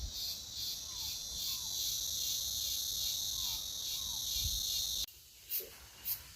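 Insects trilling in a steady, high, pulsing chorus that cuts off suddenly about five seconds in, leaving a quieter high chirp repeating roughly every three quarters of a second.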